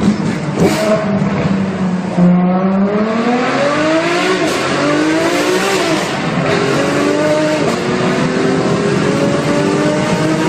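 Supercar engine accelerating hard in a tunnel, echoing: a steady drone begins climbing in pitch about two seconds in, then rises and drops back several times as it shifts up through the gears.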